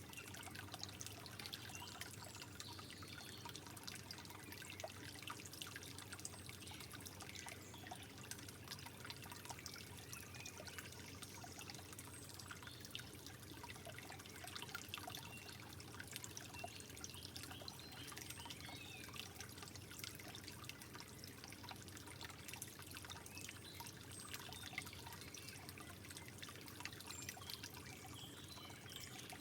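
Soft water trickling and dribbling steadily, with many small splashes and drips.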